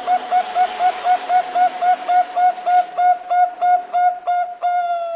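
Zebra dove (Bangkok-type perkutut) calling: a rapid string of short, clear cooing notes, about four a second, quickening slightly and ending in one long drawn-out note.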